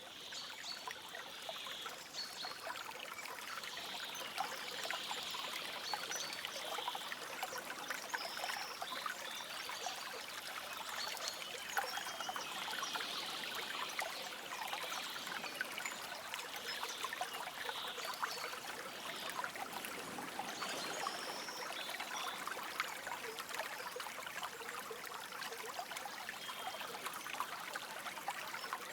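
A forest stream trickling and babbling steadily, with a few short, high bird chirps now and then.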